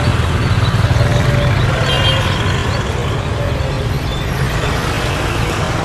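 Steady low rumble of road traffic, with a few faint high bird chirps about two seconds in.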